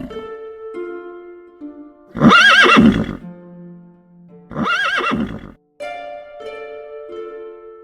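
A horse whinnying twice, each call about a second long with a shaky, quavering pitch, over light plucked background music.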